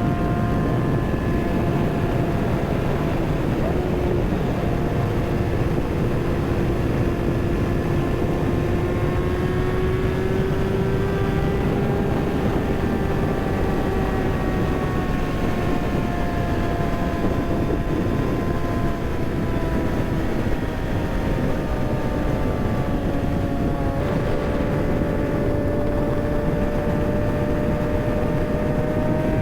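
Kawasaki ZX-6R sport bike's inline-four engine running under way, with heavy wind rush over the microphone. Its pitch rises and falls slowly, with a sudden step down about 24 seconds in.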